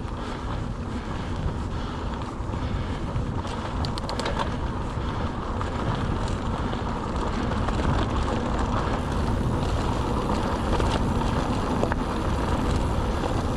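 Mountain bike riding: a steady rumble of tyres rolling on the track, with wind buffeting the microphone and a few brief sharp ticks about four seconds in.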